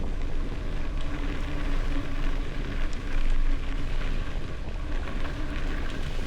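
Gravel bicycle riding: tyres crunching and rattling over loose gravel under steady wind buffeting on the microphone.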